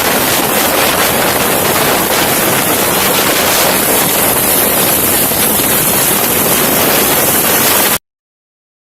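Helicopter in flight: steady rotor and engine noise with wind rushing over the microphone, cutting off suddenly about eight seconds in.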